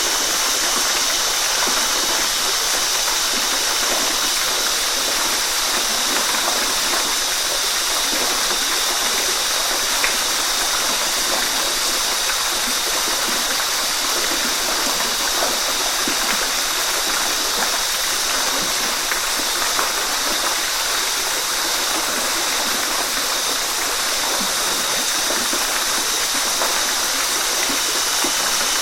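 Waterfall: falling water splashing and rushing in a steady, even hiss with no change in level.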